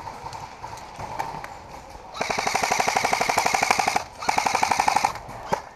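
Airsoft gun firing on full auto close by: two rapid bursts of evenly spaced shots, the first about two seconds long and the second about one second long.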